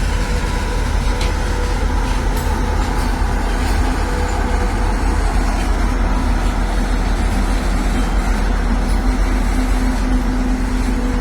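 Freight train of loaded coal hopper wagons hauled by a WAG-9 electric locomotive running by: a steady, loud low rumble with a steady hum.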